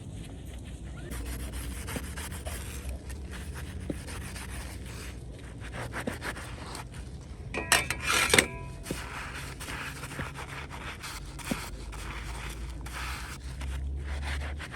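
Rubbing and scraping noises, with a louder short clatter carrying a brief ringing tone about eight seconds in.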